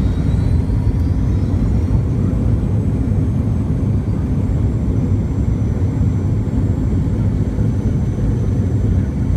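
Boeing 717 cabin noise from near the tail: a deep rumble with the high whine of the rear-mounted Rolls-Royce BR715 turbofans. The whine rises slightly in the first couple of seconds, then holds steady.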